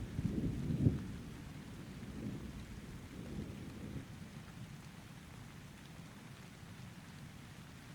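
Rolling thunder in a rainstorm: a deep rumble, loudest about a second in, that dies away over the next few seconds, leaving steady rain.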